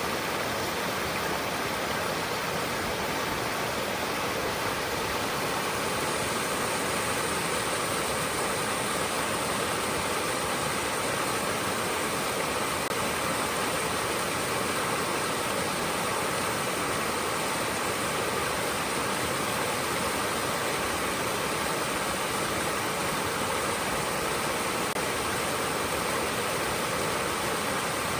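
A small stream flowing and rushing steadily over stones.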